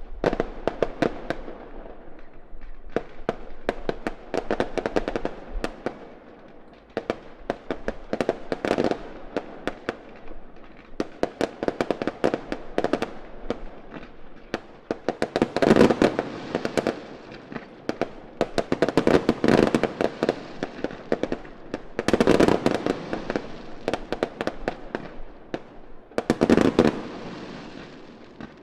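Fireworks display: dense crackling and popping from many bursts, coming in waves that peak every three to four seconds.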